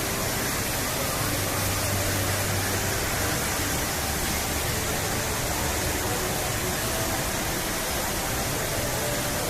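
Steady rush of falling water, with faint voices of a crowd underneath.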